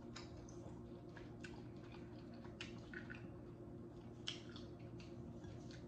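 Quiet chewing and wet mouth sounds of someone eating, with scattered soft smacks and clicks, the sharpest about four seconds in.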